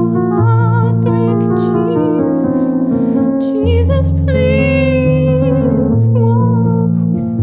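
A song with a sung melody, the voice wavering in vibrato, over held keyboard chords and a deep bass line that changes note every second or two.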